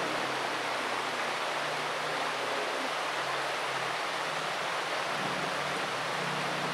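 Steady rushing noise, with the low hum of a car engine faint underneath and growing louder near the end as the Subaru WRX's exhaust note returns.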